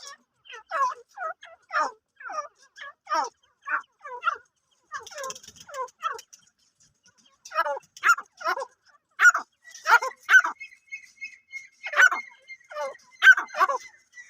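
Grey francolin (white teetar) calling: a series of short, loud, harsh calls at about two a second, breaking off briefly about halfway through and then resuming.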